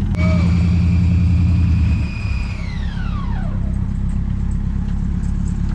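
Off-road 4x4 engine working under load, with a high whine that holds steady and then slides down in pitch and fades as the engine eases off about two seconds in.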